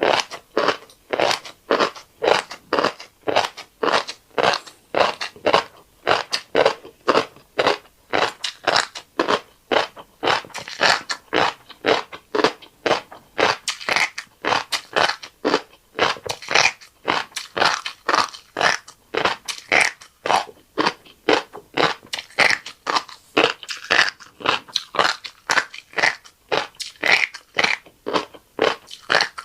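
Close-miked chewing of a mouthful of fish roe and rice: crisp, crunchy bites at about two to three a second, keeping a steady rhythm.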